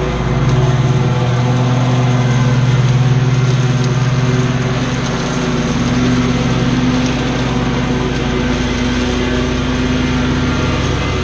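Commercial lawn mower's engine running steadily.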